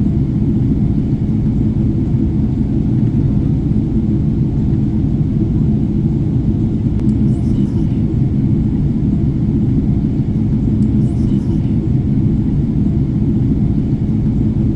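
Steady low rumble of cabin noise inside a Boeing 777-300ER on descent: airflow over the fuselage and its GE90-115B engines.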